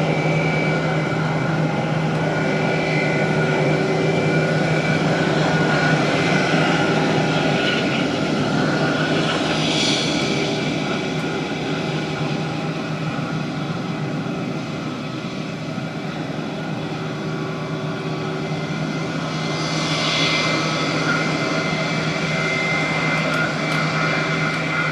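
Fixed-wing aircraft engines running steadily and fairly loud, with a constant low hum and higher steady whine tones. The loudness dips slightly in the middle and builds again.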